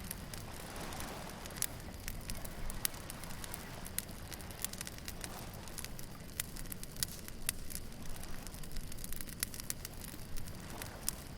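Beach bonfire crackling, with frequent sharp pops and snaps at irregular moments, over the low steady wash of waves.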